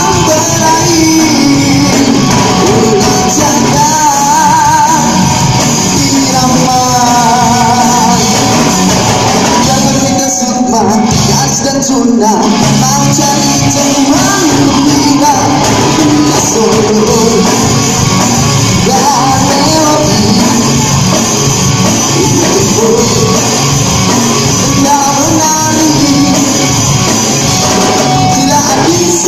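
Live band playing with a lead singer, loud and continuous.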